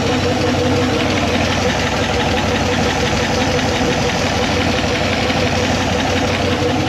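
1976 Corvette's 350 V8 idling steadily, with the A6 air-conditioning compressor engaged and running while the system is being recharged.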